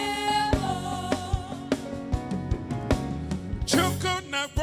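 Live gospel worship music: singing over keyboard, bass and drums keeping a steady beat, with held, wavering vocal notes.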